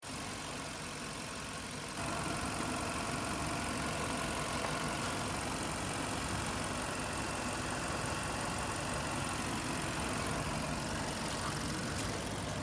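A 2017 Chevrolet Cruze car engine idling steadily, a little louder from about two seconds in.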